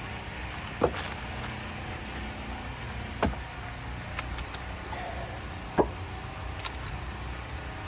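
Split firewood being restacked: pieces of wood knocking against the pile, with three louder clunks about a second, three seconds and six seconds in and a few fainter taps, over a steady low machine hum.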